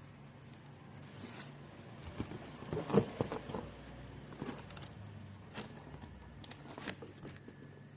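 Scattered clicks and rustling, like something being handled, busiest about three seconds in, over a faint steady low hum.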